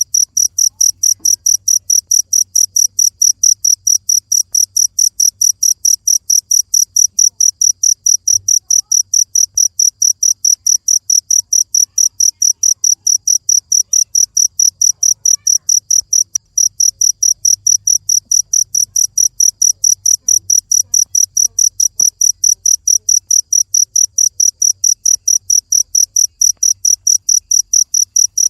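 A cricket chirping in a steady, even train of high-pitched pulses, several a second, with a brief break about 16 seconds in.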